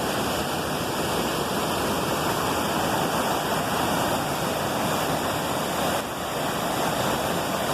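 Small waterfall: water falling and splashing in a steady, dense rush.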